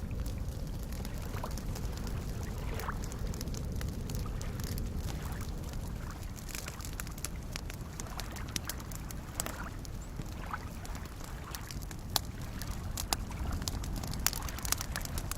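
Campfire crackling, with sharp pops over a steady low wash of small waves lapping at a lakeshore. The pops come more often in the second half, and a single loud pop stands out about twelve seconds in.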